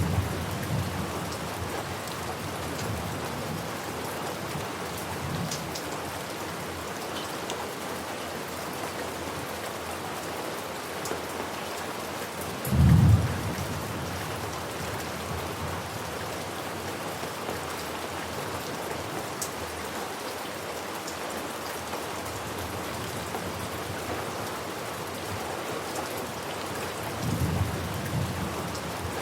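Steady rain falling, with low thunder rumbles: a short, loud rumble about halfway through and fainter ones near the start and near the end.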